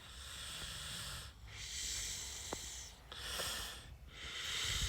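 A man breathing close to the microphone: several slow, hissy breaths in and out, one after another.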